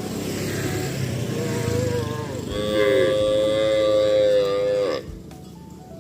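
Cow mooing: one long, loud call starting about two and a half seconds in, held at a steady pitch and dropping off in a falling slide near the end. Before it there is a rough, noisy rumble.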